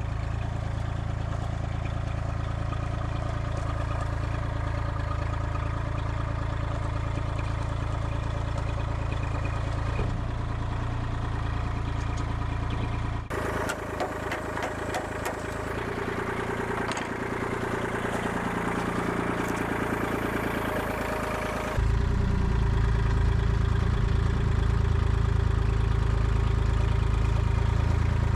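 Forklift engine running steadily as it lifts a truck cab. About halfway through rattles and clatter join it, and for the last several seconds it runs louder and deeper.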